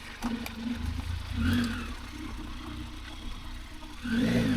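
Motorcycle engine running at low revs, with two brief rises in engine speed, about a second and a half in and near the end.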